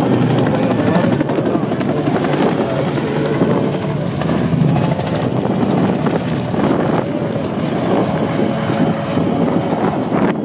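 AH-1 Cobra attack helicopters flying, their rotors and turbine engines making a loud, steady noise.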